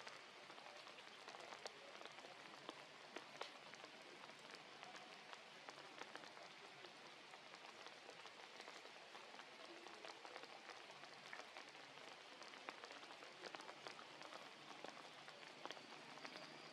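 Faint, steady rain falling, an even hiss dotted with many small drop ticks.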